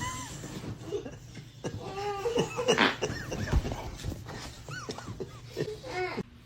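A dog making a string of short whining, grumbling vocal sounds, each rising and falling in pitch. The sound cuts off suddenly near the end.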